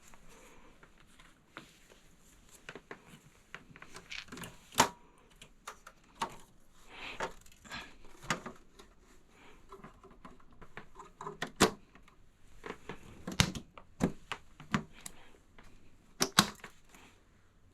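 Irregular sharp clicks and knocks with some rustling, from hard parts being handled and fitted inside a desktop computer case. The loudest knocks come about five seconds in, near the middle and twice towards the end.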